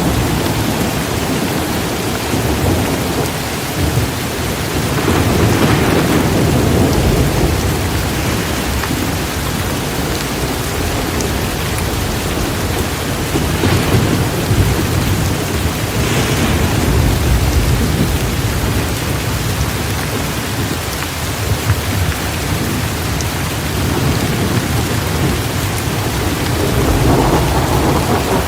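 Torrential rain pouring steadily, with thunder rumbling low a few times as the storm rolls on.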